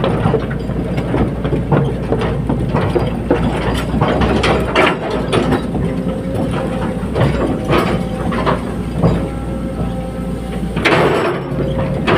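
Cat 320D hydraulic excavator working: the engine runs steadily under frequent irregular metallic clanks and knocks from the machine, with a faint steady whine joining about halfway through.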